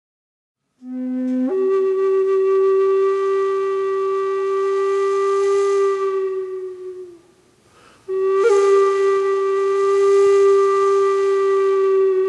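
Flute playing slow, long held notes: a brief low note steps up to a higher note held for about five seconds, which fades out, and after a short pause the same note is held again.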